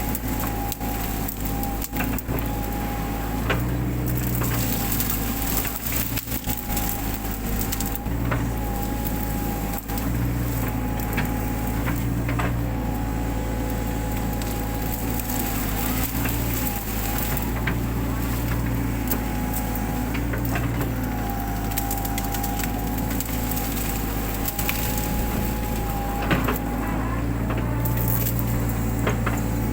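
Mini excavator engine running steadily under load, with a wavering hydraulic whine, as it crushes and tears through undergrowth. Frequent sharp cracks of snapping wood and brush run through it.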